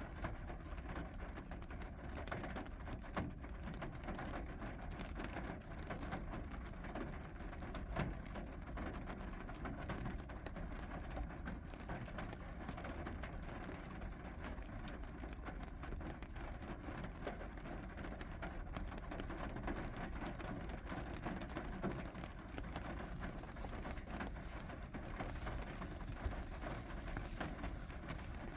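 Steady rain falling, with scattered single drops tapping a surface now and then.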